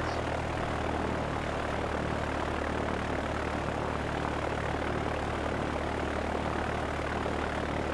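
Small propeller airplane's engine and propeller droning steadily with an even hiss, power pulled back for the final approach to landing.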